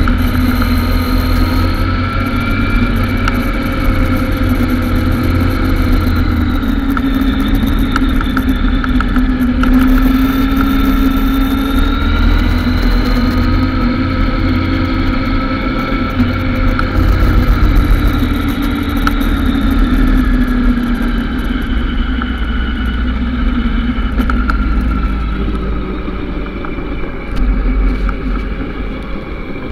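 Motorcycle engine running under way, heard from the rider's own bike, its pitch slowly rising and falling with the throttle through the bends, over a steady low rumble.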